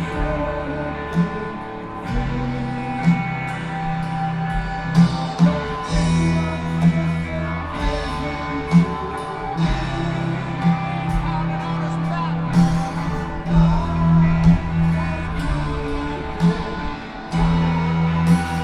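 Live rock band playing an instrumental passage: distorted electric guitar sustaining long notes over bass and drum hits.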